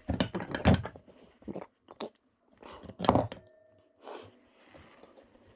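Irregular clinks and knocks of small metal parts being handled and set down, with a brief faint ring about three and a half seconds in.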